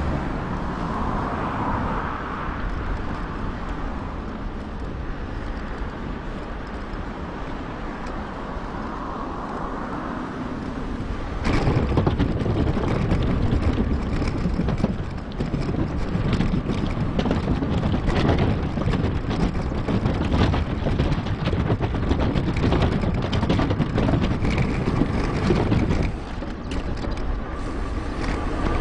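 Wind rushing over an action camera's microphone while riding a mountain bike, with tyre noise and the rattle of the bike. About a third of the way in it gets louder and busier with many small knocks and clicks, as from a rougher surface.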